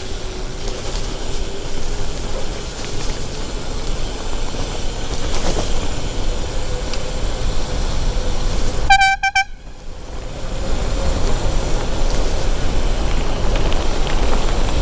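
Steady wind and road noise on a moving bicycle's action-camera microphone. About nine seconds in comes one short, high-pitched, horn-like toot.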